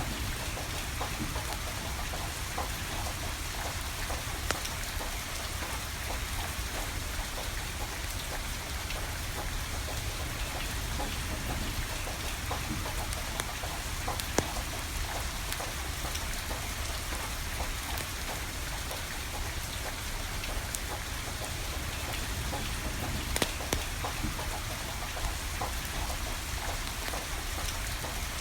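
Steady rain falling, with many small ticks and a few sharp pops from burning firewood crackling.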